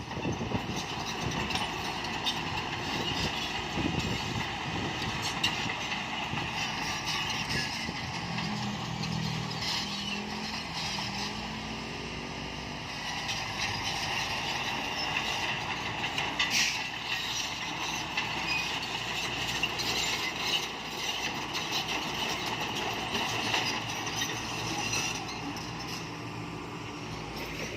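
Heavy diesel machinery running steadily, with frequent knocks and rattles; an engine's pitch rises and falls near the middle.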